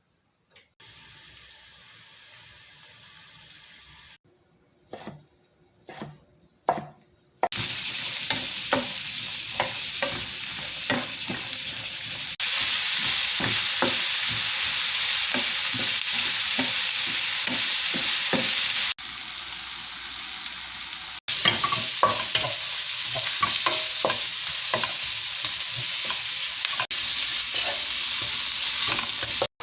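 Food being stir-fried in a hot pan: a steady loud sizzle with a spatula clicking and scraping against the pan as the ingredients are tossed. A few separate knocks come just before the loud sizzling starts.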